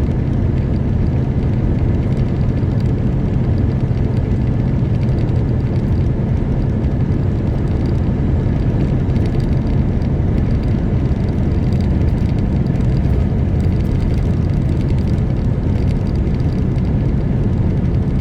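Semi truck's diesel engine and road noise while driving: a steady, loud, low drone.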